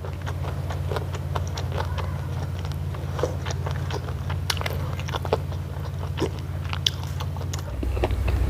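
Close-up mouth sounds of someone chewing and biting tender roasted chicken: wet smacks and many small sharp clicks. A steady low hum runs underneath and stops shortly before the end.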